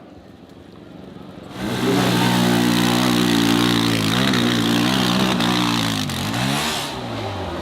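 Dirt bike engine revving hard, starting loud about a second and a half in, holding high revs with two brief dips in pitch, then easing off near the end.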